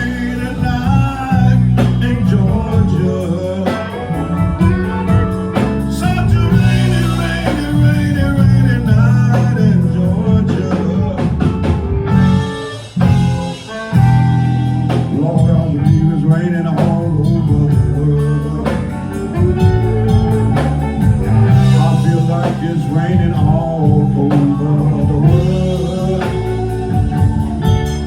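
Live blues band playing an instrumental passage of a slow ballad: electric guitar lines with bends over bass and drums. The band drops back briefly about halfway through.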